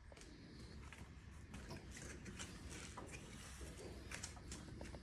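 Faint scattered light clicks and rustling of hands working on a partly dismantled small engine.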